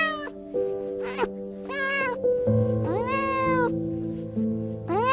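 A cat meowing over and over, five meows that each rise and fall in pitch, the longest about three seconds in, over background music with held notes.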